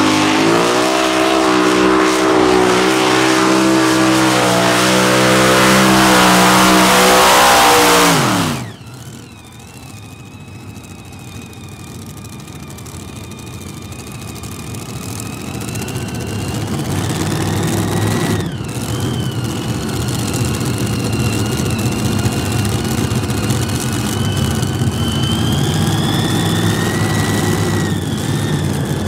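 Heavy modified pulling tractor running at full power through a pull, then cutting off sharply about eight and a half seconds in. What follows is a much quieter engine sound with a high whine that slowly rises in pitch and level.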